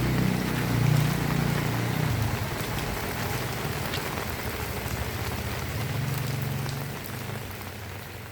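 Heavy rain falling steadily, with a low rumble of a passing vehicle in the first two seconds and again briefly about six seconds in. The whole sound fades down near the end.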